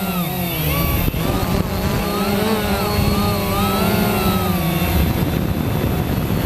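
Quanum Nova quadcopter's brushless motors and propellers whining in flight, several tones rising and falling in pitch together as the throttle changes.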